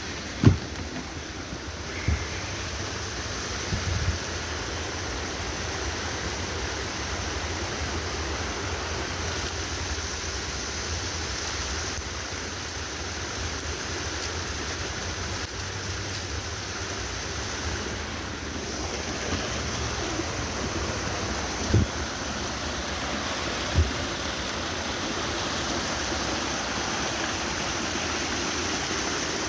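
Small waterfall rushing steadily, with a few brief thumps.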